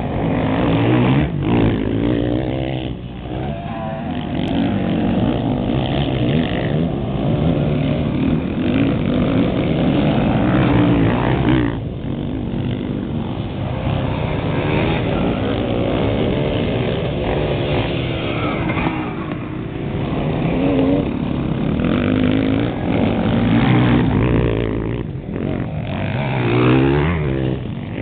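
Several motocross bikes racing past, their engines revving up and falling back over and over as riders accelerate down a straight and brake into a corner, with overlapping engine notes rising and falling throughout.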